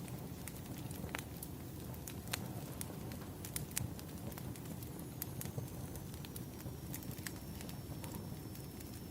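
Firewood burning: a steady low rumble of the fire with irregular sharp pops and crackles.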